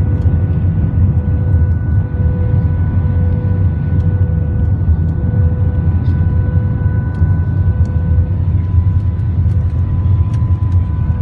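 Passenger jet engines heard from inside the airliner's cabin: a steady, loud low rumble with a constant high whine over it.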